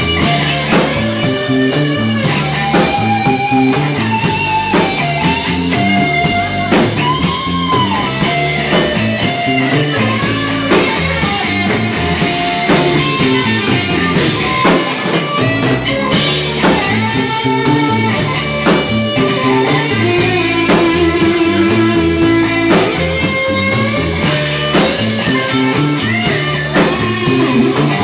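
Live rock band playing an instrumental passage: an electric guitar lead with bent notes over bass and drums.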